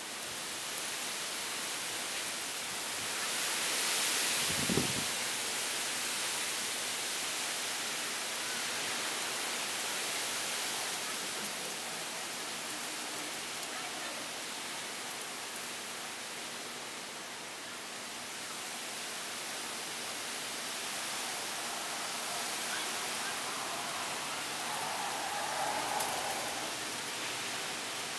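Heavy rain pouring down steadily in a cold-front downpour, swelling around four seconds in, with one brief low thump about five seconds in.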